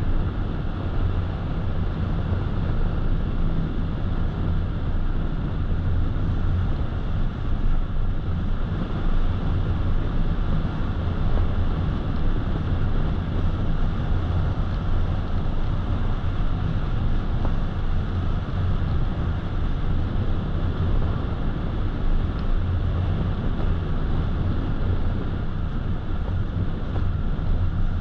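Steady road noise of a car driving at an even speed: tyre rumble and a low hum, with wind rush over the car.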